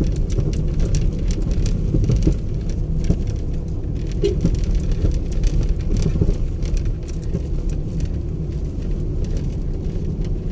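Vehicle driving over a rough road under construction: a steady low rumble with many small ticks and rattles throughout.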